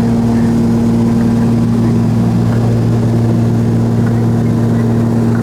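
Steady drone of the Cessna 340A's two turbocharged six-cylinder Continental TSIO-520 piston engines and their propellers, running at constant power.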